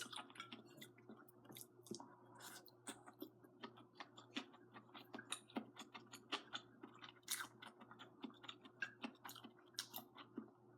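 Close-up chewing of a mouthful of string bean braised noodles: faint, irregular small wet clicks and smacks from the mouth, over a faint steady hum.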